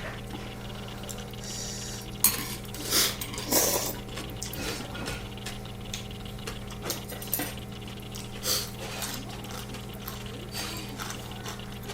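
Eating sounds: spoon and chopsticks clicking against a ttukbaegi and bowl, with a few louder noisy bursts of noodle slurping about two to four seconds in, over a steady low electrical hum.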